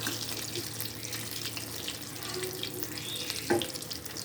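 Chicken pieces frying in hot oil, a steady sizzle with fine crackling. One sharp knock sounds about three and a half seconds in, like a utensil hitting the pan.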